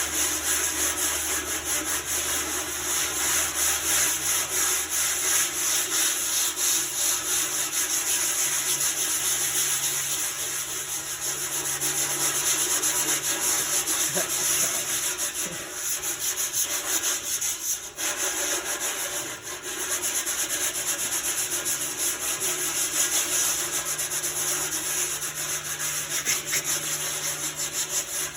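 Sandpaper scrubbing steadily over the painted, rusty sheet metal of a 1971 International Cub Cadet tractor as it is sanded down for repainting. There is a brief pause about eighteen seconds in.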